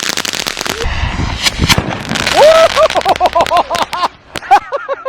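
Consumer ground firework going off: dense crackling, a deep bang a little after a second in, then a quick run of short rising-and-falling squeals from about two seconds to four.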